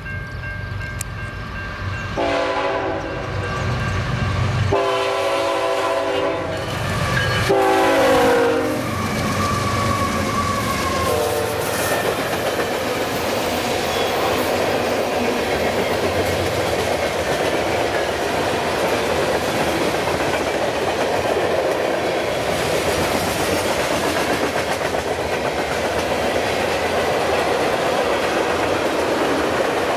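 Train passing over a grade crossing: a locomotive air horn sounds four blasts in the first dozen seconds, the third falling in pitch. The train then rolls by with steady wheel-on-rail clatter.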